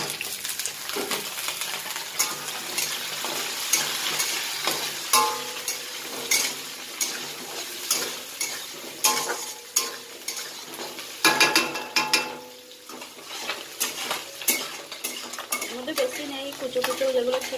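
Onions and potatoes sizzling in hot oil in a steel kadai. A metal spatula stirs them, scraping and clinking against the pan again and again.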